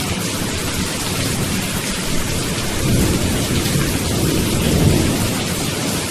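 Steady rain with low thunder rumbles, swelling about three seconds in and again near the end.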